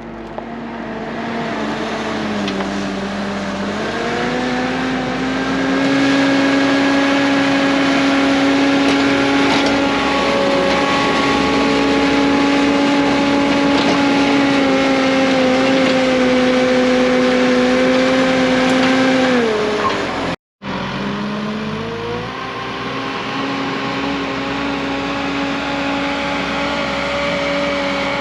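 Bobcat S650 skid steer's diesel engine working under throttle while unloading hay bales, its pitch rising about four seconds in and holding steady. It drops back just before a brief cut about twenty seconds in, then revs up again.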